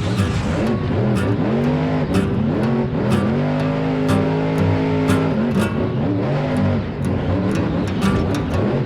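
Vehicle engine revving up and down over and over, its pitch rising and falling in short arcs and held level for a moment in the middle, with scattered clicks.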